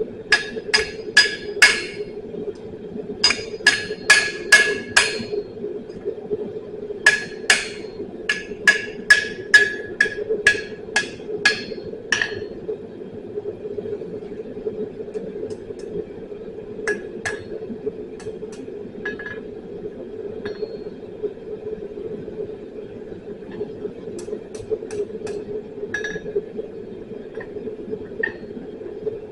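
Hammer blows ringing on an anvil, coming in quick runs of several strikes for the first twelve seconds or so, then scattered single taps. A steady hum runs underneath.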